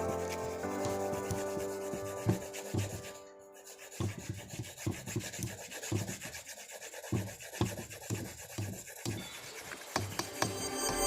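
A drawing tool rubbing and scratching on paper in a run of quick back-and-forth shading strokes, about two to three a second, starting about four seconds in. Soft background music plays at the start.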